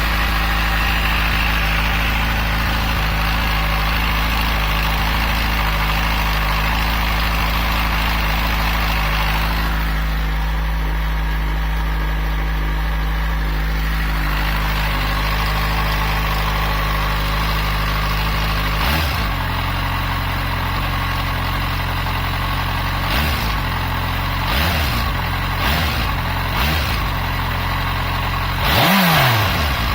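Yamaha FZ6 inline-four motorcycle engine idling steadily, then blipped on the throttle about five times in the last third, the biggest rev rising and falling near the end.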